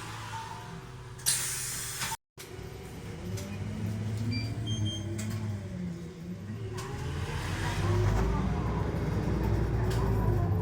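Keisei city bus no. 8177 heard from inside the cabin: a short hiss of air about a second in, then the engine pulling away and accelerating, its pitch rising and falling repeatedly and growing louder toward the end.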